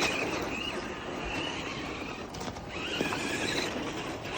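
Electric motor of a radio-controlled off-road car whining, its pitch wavering and climbing as the throttle is pushed and released, cutting out briefly a few times, over the grinding of its tyres in snow.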